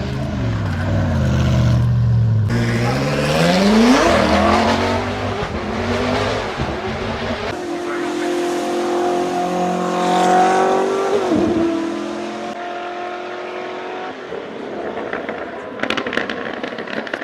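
Koenigsegg Jesko's twin-turbocharged V8 revving and accelerating, its pitch climbing hard, then holding and dropping away sharply about eleven seconds in. The sound changes abruptly several times, as between spliced clips.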